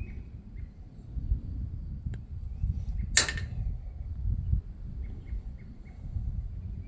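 Wind buffeting the microphone, with one sharp snip about three seconds in: wire cutters cutting through a solar panel lead. Faint short chirps of small birds come and go.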